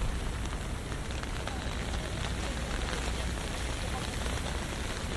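Steady rain, with scattered drops tapping on an umbrella held overhead, over a low city rumble.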